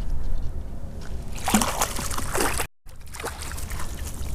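Water splashing and sloshing in shallow creek water, over a low wind rumble; the sound drops out for an instant about two and a half seconds in.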